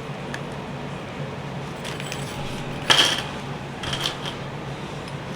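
Small metal engine parts clinking as a piston's wrist-pin spiral lock is handled and fitted: a few light clicks, a sharper ringing clink about three seconds in and two smaller ones about a second later, over a steady low hum.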